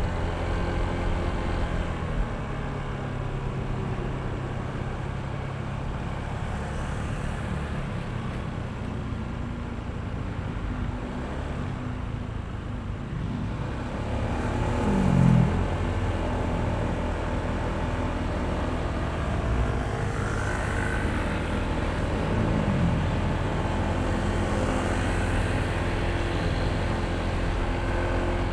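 Honda ADV160 scooter's single-cylinder engine running while riding, under wind and road rush. The engine note shifts in pitch and swells briefly about halfway through.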